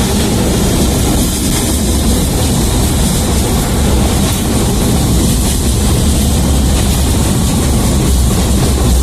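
Tatra T3A tram under way, its running noise a steady, loud low rumble with an even hiss over it.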